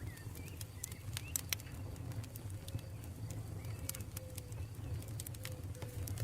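Campfire burning, with irregular sharp crackles and pops over a low steady rumble of the flames. Faint bird calls sound in the background.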